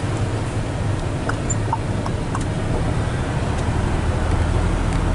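Hino 500 FM320TI truck's diesel engine running steadily, heard from inside the cab. A few light ticks come in about one to two and a half seconds in, and the drone grows a little louder near the end.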